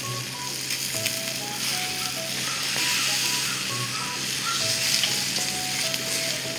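Meat sizzling on a grill over a fire pit: a steady hiss with small crackling pops. A simple background tune of short held notes plays alongside.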